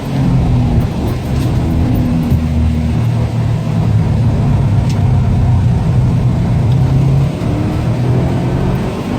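Subaru Impreza WRX STI's turbocharged flat-four engine running hard at lapping pace, heard from inside the cabin, with a brief drop in revs about seven seconds in.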